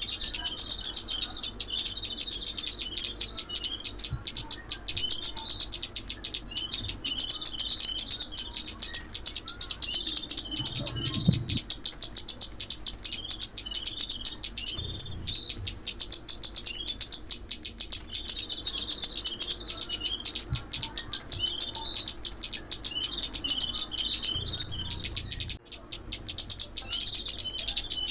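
Sunbird (chim ốc mít) song as used for a trapping lure: rapid, high-pitched chirps and twittering trills running on continuously, with a thin steady high whistle underneath.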